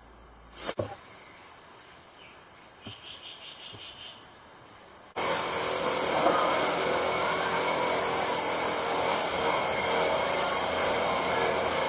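A click, then about five seconds in a loud, steady, hissing machine noise starts abruptly and keeps running, typical of a power tool cutting or grinding.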